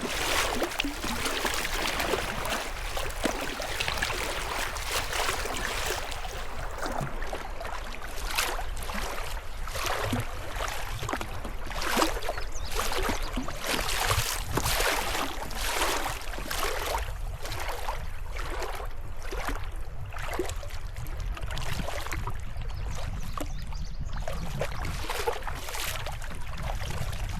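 River water rushing and sloshing around a kayak, with short splashes recurring about once a second from about eight seconds in, like paddle strokes, over a low rumble.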